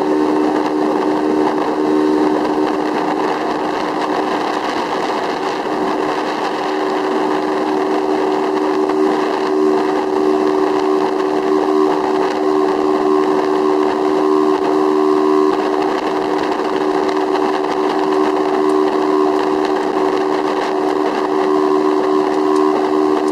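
Speedboat engine running steadily at cruising speed, a constant drone with a rushing noise over it.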